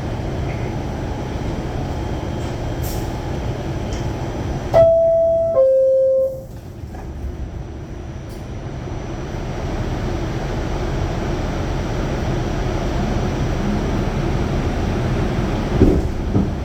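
Inside an R46 subway car: the steady hum of the stopped train. About five seconds in comes the two-note falling door chime, a higher tone and then a lower one. The level drops as the doors close, then the running noise builds again as the train pulls out, with a short knock near the end.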